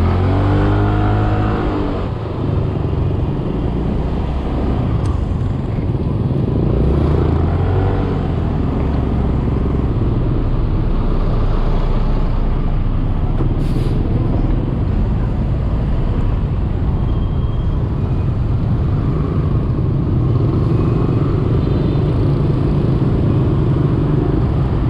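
Scooter engine accelerating twice, its pitch rising at the start and again about seven seconds in, then running steadily under continuous road noise.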